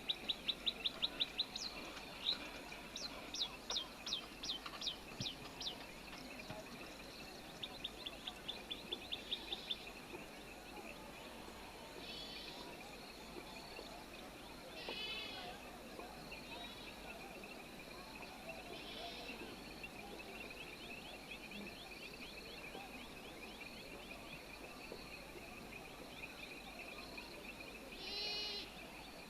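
Small birds calling: runs of quick, short, high chirps, about five a second, repeated several times. A couple of warbling calls come midway and near the end, over a faint steady high drone.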